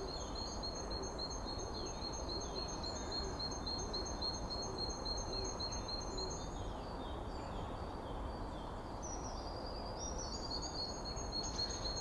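Birds chirping over a steady background hiss of outdoor ambience. One bird repeats a short high note about three times a second, and falling calls are mixed in.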